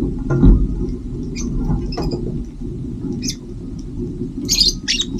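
Small birds chirping in short high calls: a few scattered ones, then a busy flurry of chirps near the end. Under them runs a steady low rumble, and there is one loud thump about half a second in.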